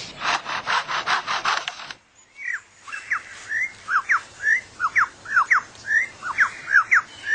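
Superb lyrebird mimicking a forester's chainsaw: a fast series of rasping, sawing strokes for about two seconds. After a short pause it breaks into a quick run of short whistled notes, some sliding down and some up.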